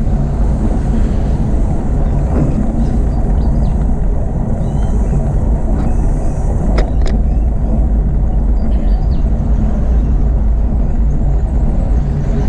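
Steady rumble of wind buffeting the microphone of a camera mounted on a moving bicycle, mixed with tyre and road noise. Two sharp clicks come about seven seconds in.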